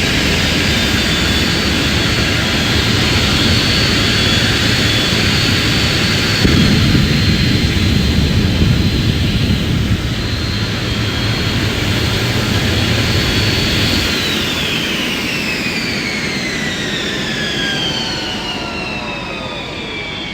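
Vampire jet car's turbojet engine running with a steady high whine over a low rumble, the rumble swelling for a few seconds near the middle. About two-thirds of the way through the whine starts sinking steadily in pitch and the sound fades as the engine winds down.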